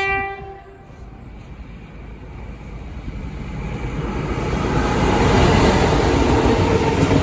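A train horn's last note cuts off just after the start. Then a train approaches, its rumble and rail noise growing steadily louder over about four seconds and staying loud near the end.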